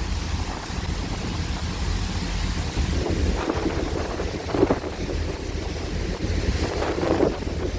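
Wind buffeting the microphone over a steady low rumble from the ferry Diagoras under way and the sea's wash, gusting louder a few times.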